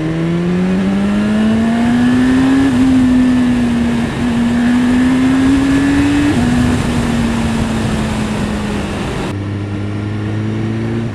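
2015 BMW S1000RR's inline-four engine pulling under throttle while riding. Its note rises over the first few seconds with a few short hitches, then slowly falls as it eases off. Wind rushes over the microphone and drops away near the end.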